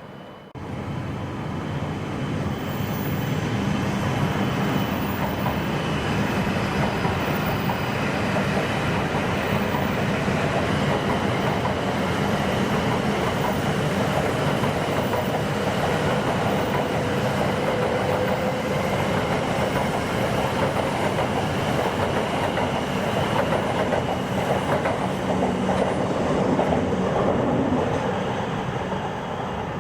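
Shinkansen bullet train running on the line: a loud, steady rail rumble with wheel clatter that sets in suddenly just after the start and eases slightly near the end.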